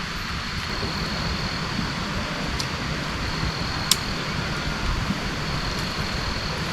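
Steady heavy rain falling, an even hiss, with a couple of sharp taps of drops landing about two and a half and four seconds in.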